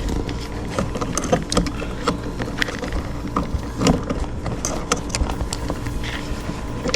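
Scattered small clicks, taps and rustles of hands working electrical wires and small parts, over a steady low hum.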